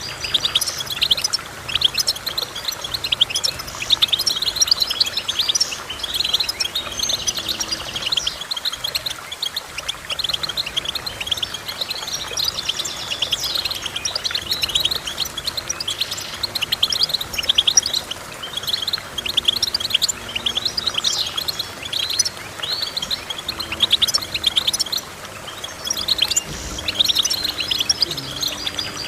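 Finch song: a small songbird twittering in a fast, continuous run of high chirps and trills, with brief pauses.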